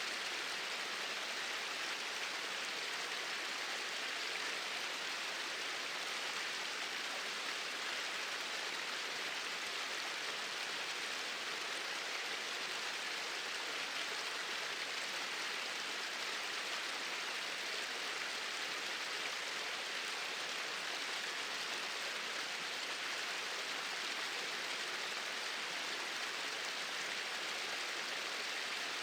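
Small waterfalls running with a steady, even rush of falling water.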